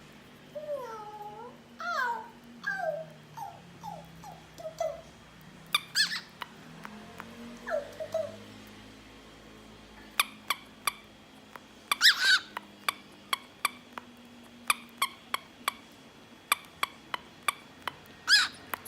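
Cockatiel and a mini screaming rubber chicken squeeze toy: a run of short falling whistled notes, then loud squawks at intervals of about six seconds, with many sharp clicks in between in the second half.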